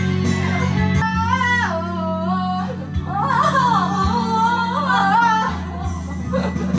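A song: a voice singing a wavering melody over steady backing music, the voice coming in about a second in and dropping out shortly before the end.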